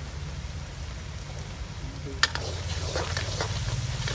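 Onion, garlic and spices frying in oil in an iron kadhai, a faint sizzle over a steady low rumble. About two seconds in a metal ladle knocks once on the pan and then scrapes as it stirs.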